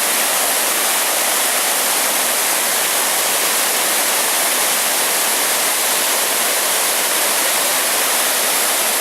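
A powerful waterfall's rushing water, a steady, loud, hiss-like roar of falling water.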